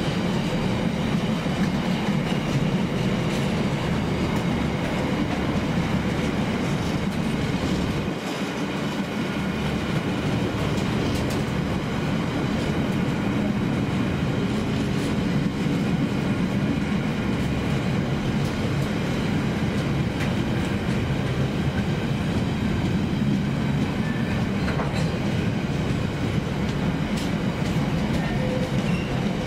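A train running through the station, a steady rumble of wheels on rail with a few scattered sharp clicks, lasting the whole time.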